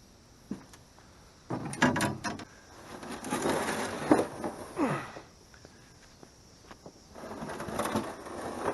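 Knocks and scraping from a canoe hull as it is pushed off and climbed into: a cluster of knocks, then two longer scrapes with a sharp click and short falling squeaks.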